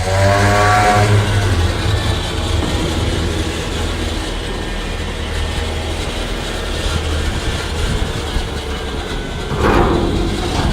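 Dump truck engine running steadily with its hoist control engaged to raise the dump box. In the first second or two a whine rises in pitch, and a brief louder rush of noise comes near the end.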